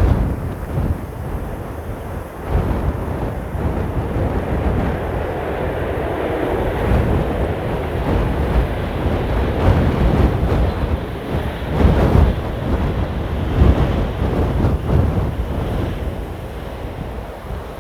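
Strong gusting wind buffeting the microphone, with the engine noise of a jet airliner on landing approach swelling in the middle.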